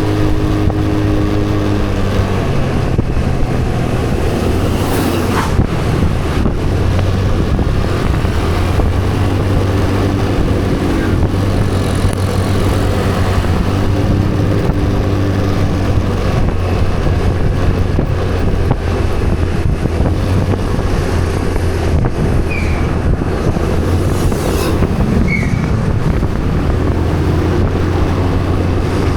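Motorcycle engine running steadily under way, its pitch stepping up and down every few seconds, with road and wind noise over it.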